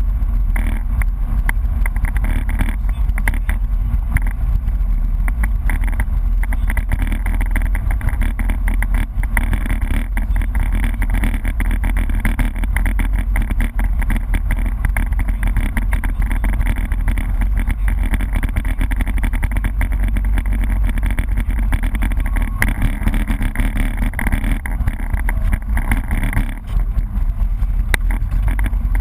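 BMW E30 rally car under way at speed, heard from inside the cabin: engine running under load with heavy tyre and road noise. The level stays steady, with one brief drop near the end, as the engine note eases.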